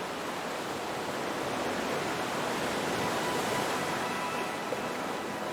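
Ocean surf washing steadily, an even rushing wash of waves with no distinct breaks. Faint music tones start to come in over it in the second half.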